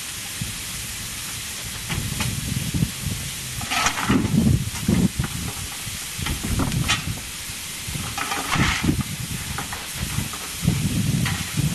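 Steam locomotive hissing steam steadily, with irregular low rumbles and two louder rushes of hiss, about four and eight and a half seconds in.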